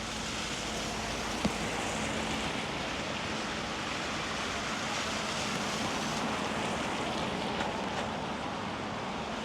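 Steady outdoor city street ambience, an even wash of noise, with a single sharp click about one and a half seconds in.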